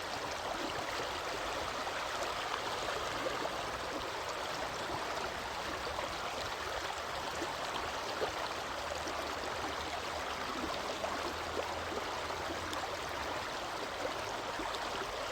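Steady rushing of running water, even and unbroken, like a stream.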